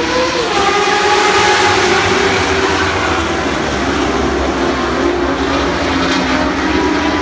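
A pack of Lightning Sprint cars, small sprint cars powered by motorcycle engines, running hard together at the start of a race. Many engines at high revs overlap, their pitches rising and falling.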